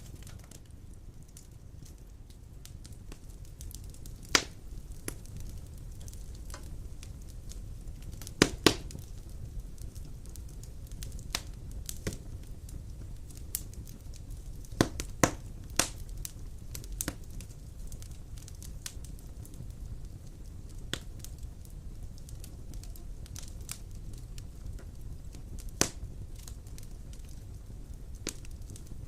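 Wood fire burning in a stone fireplace: a steady low rumble of flame with irregular crackles and sharp pops, the loudest a quick double pop about a third of the way through.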